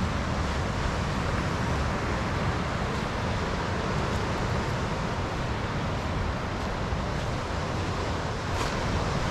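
Steady wind buffeting the microphone over the wash of ocean surf, with a few faint clicks.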